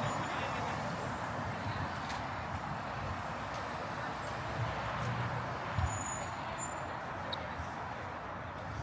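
Steady city street ambience: a continuous hum of passing traffic, with a few faint, brief high-pitched chirps or squeaks above it.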